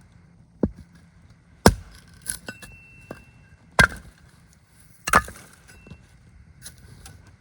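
Wood being chopped: four sharp, heavy strikes at uneven spacing, one to two seconds apart, with a few lighter knocks in between.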